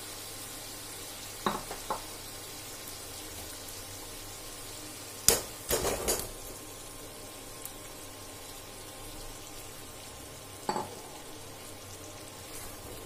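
Spice masala sizzling steadily in hot mustard oil in a nonstick wok. Around the middle comes a sharp knock and a quick cluster of knocks as the fried baby potatoes are tipped from a bowl into the pan, with a few lighter spatula clicks before and after.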